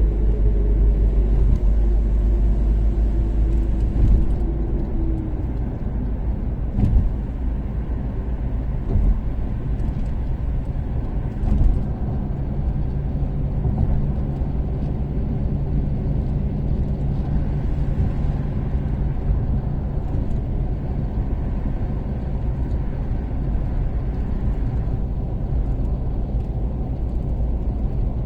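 Toyota Caldina's 3S-GTE turbocharged four-cylinder engine and road rumble while cruising on an expressway; the engine tone falls over the first few seconds, then holds steady. A few short thumps come through about 7 and 12 seconds in.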